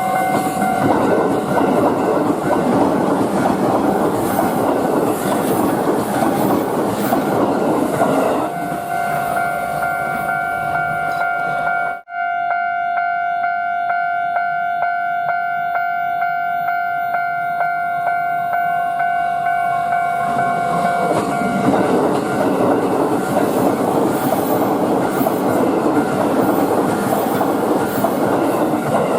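JR East E233-series electric trains passing over a level crossing, with wheel-on-rail clatter and running noise, one train in the first eight seconds and another from about 21 seconds to near the end. A Japanese level-crossing warning bell rings steadily throughout, heard plainly between the two trains. There is a brief break in the sound about twelve seconds in.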